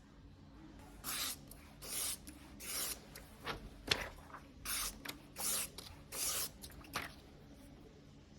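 Sashimi knife blade being stroked across a whetstone: about eight short rasping strokes at a steady pace, with a sharper click near the middle.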